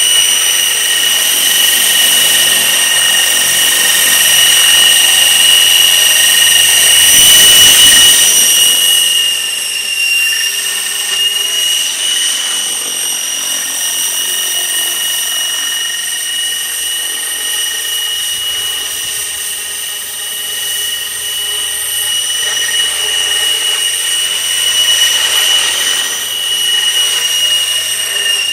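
Outrage Fusion 50 RC helicopter in flight: a steady high-pitched whine from its engine and rotors. It swells to its loudest about seven or eight seconds in, then settles a little quieter.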